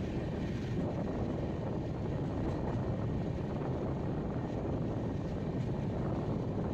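Express train coach running along the track, heard from on board: a steady low rumble that does not change.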